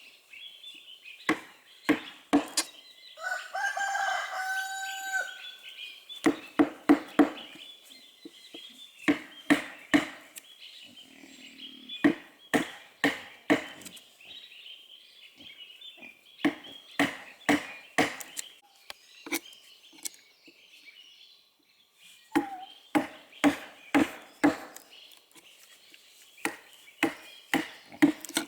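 Repeated sharp blows of a tool on wood, coming in quick runs of two to four strikes, over a steady high insect drone. About three seconds in, a rooster crows once.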